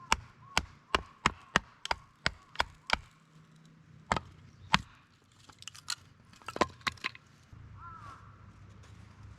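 Firewood being chopped: a quick run of about nine sharp strikes into wood, roughly three a second, then two more spaced strikes and a few lighter knocks. A bird calls near the end.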